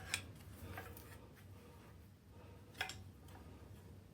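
Faint rubbing and a few sharp clicks of a metal engine part being worked loose by hand.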